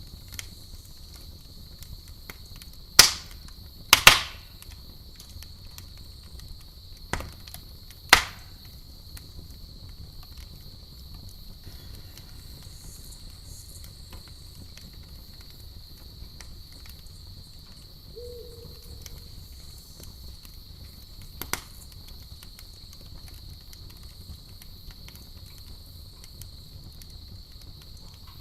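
Campfire burning with a few loud sharp pops of burning wood, four in the first eight seconds and one more about twenty seconds in, over a steady high chirring of crickets.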